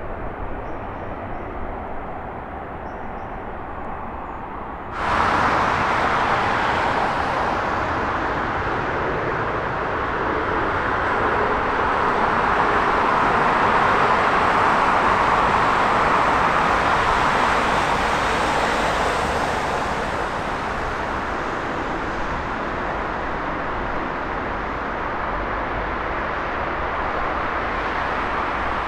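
Jet airliner engine noise: a low rush, then an abrupt change about five seconds in to a louder, fuller jet roar that swells and then eases.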